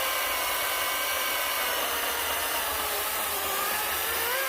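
Cordless battery chainsaw running while cutting a log: a steady electric motor whine that sinks slowly in pitch as the chain loads up in the wood, then climbs back up quickly near the end as the load comes off.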